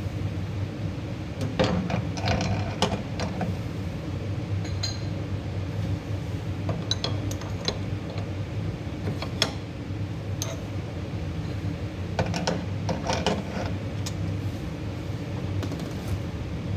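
A steady electric machine hum with scattered metal clicks and clinks, in clusters about a second and a half in, around the middle and again near the end.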